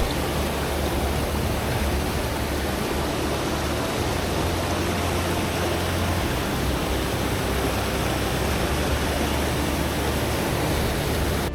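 Steady rush of high, fast-flowing creek water over rocks and small waterfalls.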